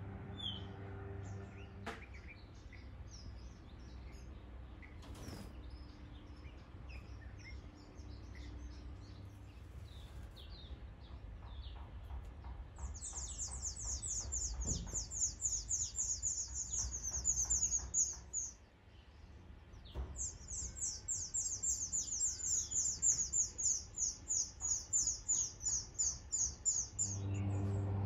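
Birds calling: faint scattered chirps, then about halfway through two long bouts of a rapid, high-pitched trill of short repeated down-slurred notes, with a brief pause between them.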